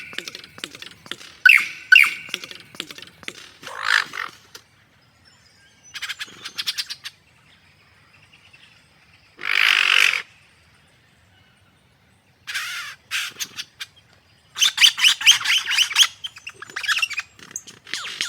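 Birds calling in separate bursts of rapid chirps and trills with quiet gaps between them, and one louder, harsher call about ten seconds in.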